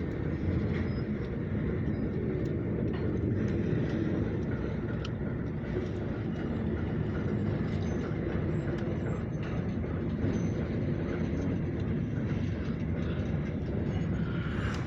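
Oil Creek & Titusville freight train of grain hopper cars behind an Alco diesel, rolling past in reverse. It makes a steady rumble of wheels on rail, with scattered light clicks.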